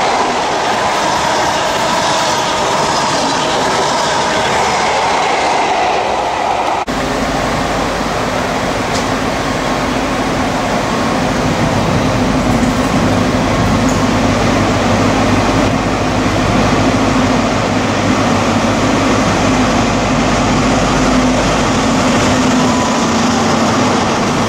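Network Rail HST measurement train running past, its coaches' wheels rolling on the rails. After an abrupt cut about seven seconds in, a Class 43 diesel power car's engine sounds as a steady low hum over the wheel-and-rail rumble.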